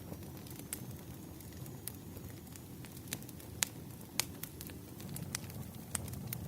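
Wood fire crackling: irregular sharp pops and snaps of burning firewood over a steady low rumble, with a louder pair of pops a little past the middle.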